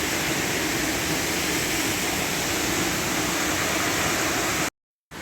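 Waterfall's steady rush of falling water. It cuts off abruptly near the end and comes back fainter.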